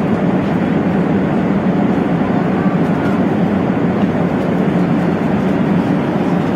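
Steady cabin noise inside an Airbus A380 airliner: an even, unbroken rumble of engines and airflow, heaviest in the low range.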